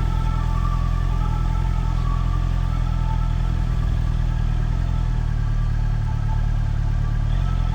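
Motorcycle engine running steadily at low revs, with small shifts in its tone about five and seven seconds in.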